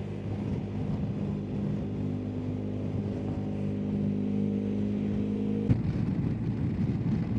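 BMW R1250GSA's boxer twin engine running steadily at cruise on the road. About two-thirds of the way through, the engine note breaks off abruptly with a click and turns rougher and noisier.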